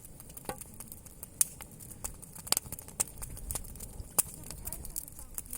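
Campfire wood crackling, with irregular sharp pops over a steady hiss.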